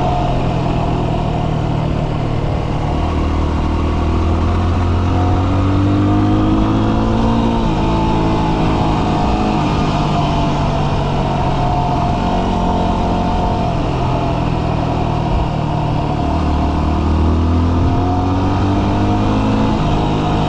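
Dual-sport motorcycle engine running under way, its note shifting up and down every few seconds, over a steady rush of wind noise.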